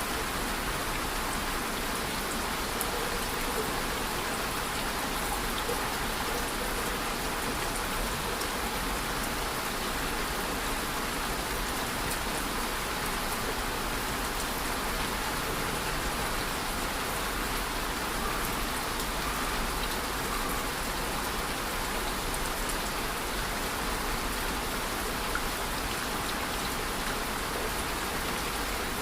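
Steady rain falling, an even hiss of drops with faint scattered patters, unchanging throughout.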